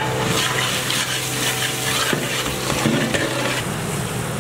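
A metal ladle stirring and scraping vegetables as they sizzle in hot oil in a large aluminium pot. The sizzle swells about a third of a second in and eases near the end.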